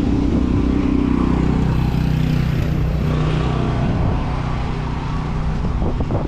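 Downtown road traffic: a motor vehicle's engine running close by, a steady low hum, over a rush of street and wind noise.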